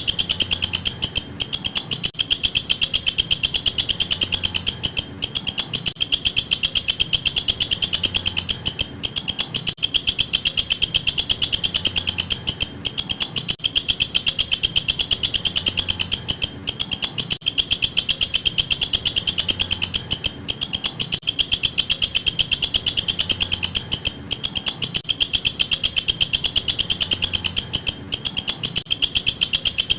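Walang kecek katydid stridulating: a loud, continuous, high-pitched train of rapid clicking chirps, broken by short pauses every second or two.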